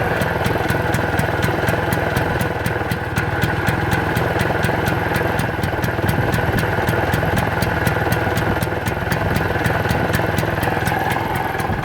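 Piaggio Ape 600 MP engine idling steadily with an even beat. The engine keeps spitting oil out as it runs, though the owner says it runs on pure gasoline with no oil mixed in.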